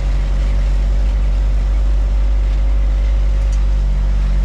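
Truck engine and tyres running steadily on the road, a loud, even low rumble with a faint steady whine above it.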